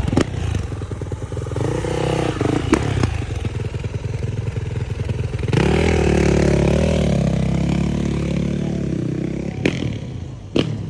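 Yamaha four-stroke dirt bike engine revving, its pitch rising and falling, with launch control just switched on. A louder surge about five and a half seconds in dies away over the next few seconds, and a few sharp clicks come near the end.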